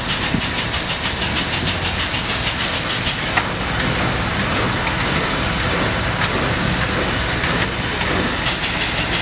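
Nickel Plate Road steam train running: rapid, even beats of about five a second over a low rumble and hiss, easing into a steadier hiss after about three seconds, with the beats returning near the end.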